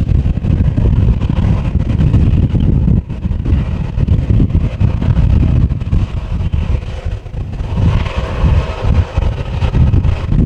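Strong gusty wind buffeting the microphone, a loud uneven low noise that drowns out the jet engines of a taxiing airliner. The engines' hum comes through more clearly about eight seconds in.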